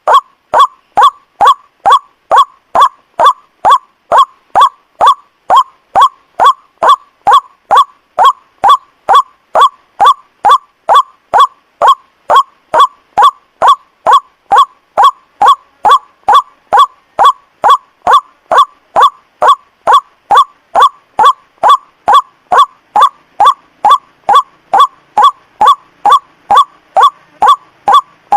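Looped recording of white-breasted waterhen (ruak-ruak) calls played as a bird lure: one short, loud call note repeated evenly, about twice a second.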